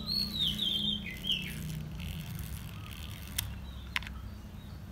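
A bird chirps a quick whistled phrase during the first second and a half. Two sharp clicks follow near the end, from the winding crank of a Hasselblad film magazine being turned to check that it stops at the first frame. A low steady hum runs underneath.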